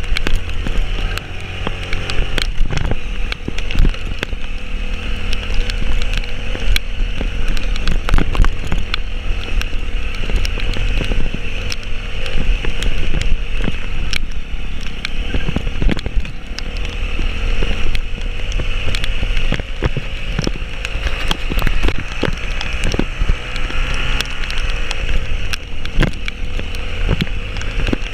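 A vehicle driving up a rough mountain road: a steady low engine rumble with frequent sharp knocks and rattles as it jolts over bumps.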